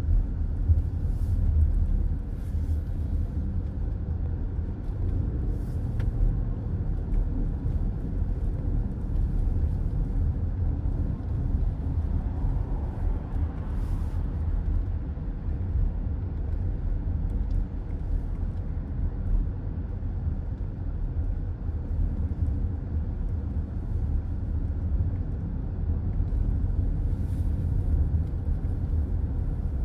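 Steady road noise of a car driving at highway speed, heard from inside the cabin: a low, even rumble of tyres and engine, with a few faint, brief whooshes.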